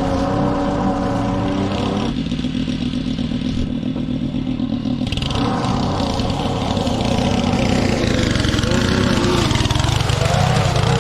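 Petrol lawn mower engine running under load, its note dipping for a few seconds and wavering again near the end.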